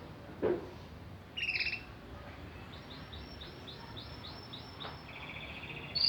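Domestic canary singing: a short note, then a run of repeated falling high notes at about four a second, going into a very fast rolling trill near the end. A single knock sounds about half a second in.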